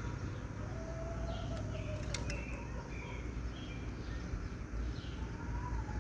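Birds in a pen: short, faint high chirps every second or so over a steady low rumble, with a couple of sharp clicks about two seconds in.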